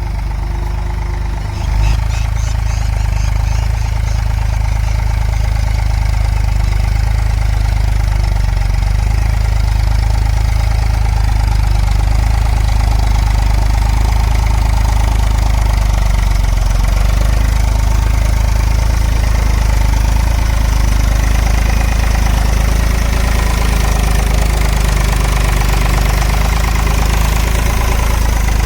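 Eicher tractor's diesel engine running steadily, growing louder about two seconds in and then holding.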